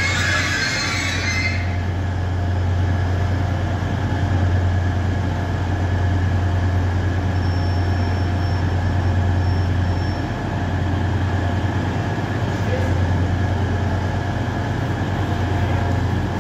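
Class 180 Adelante diesel multiple unit idling at the platform, a steady low engine hum under a noisy rumble. A loud hiss stops about a second and a half in.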